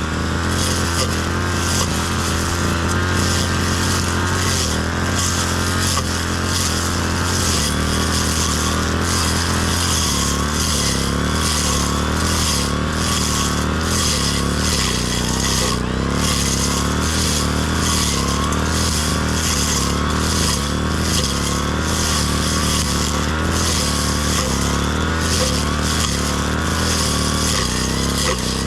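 Brush cutter (grass-cutting machine) engine running steadily under cutting, its pitch shifting a little now and then.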